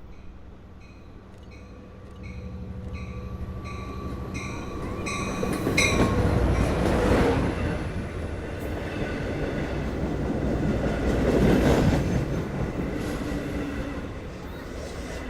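Long Island Rail Road diesel-hauled passenger train arriving and running past along the platform. A bell dings rapidly during the first few seconds. The train noise swells loud about six seconds in and again near twelve seconds.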